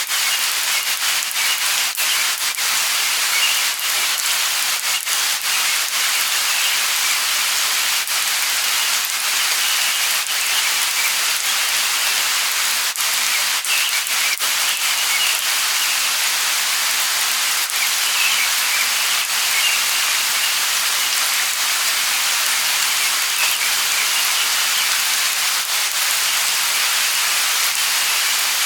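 Light rain falling steadily: an even hiss with many small drop ticks scattered through it.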